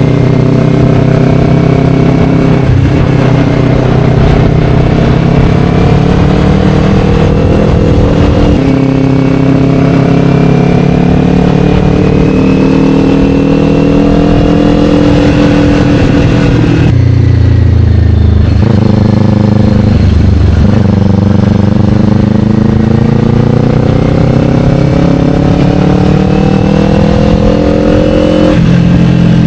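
Kawasaki Ninja 500's parallel-twin engine through an Akrapovic slip-on exhaust, under way and pulling slowly up through the revs. The pitch steps down with upshifts about eight seconds in and near the end, and the revs fall away sharply around seventeen seconds before building again.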